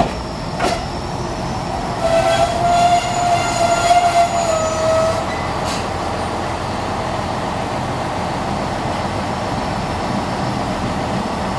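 Moka 14 diesel railcar drawing to a halt at the platform: a long, steady squeal from about two to five seconds in, over the steady running of the railcar's diesel engine, with a sharp click near the start and another just before six seconds.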